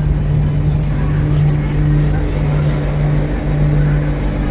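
Passenger train running, a steady low hum over a constant rumble, as it pulls into a station.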